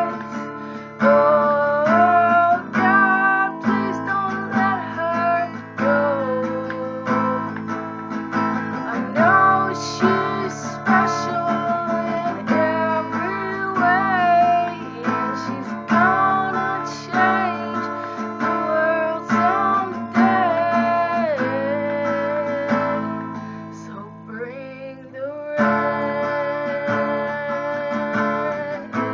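A woman singing while strumming an acoustic guitar, her voice holding and sliding between notes with a slight waver.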